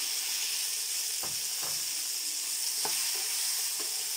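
Chopped tomatoes sizzling as they hit hot oil in a non-stick pan with frying shallots, garlic and dried chillies. A wooden spatula knocks and scrapes against the pan a few times as they are stirred.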